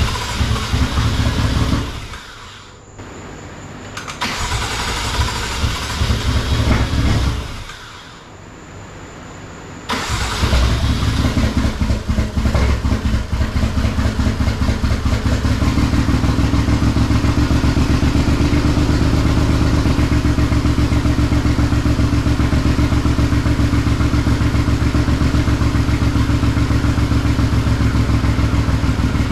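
Freshly built BMW S55 inline-six with a single turbo, cranked over by its starter in two short bursts, then about ten seconds in it fires and runs steadily. It is loud and raw, with no exhaust gaskets and no muffler fitted.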